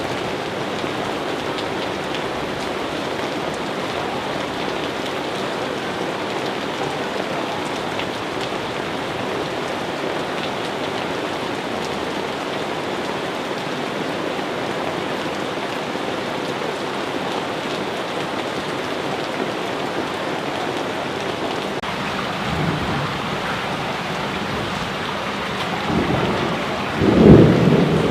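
Steady heavy rain falling, with low rumbles of thunder coming in over the last several seconds and growing loudest near the end.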